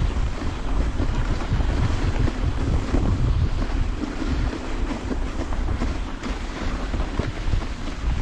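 Steady wind buffeting the microphone of a camera riding on a moving dog sled, a continuous low rumble under an even hiss.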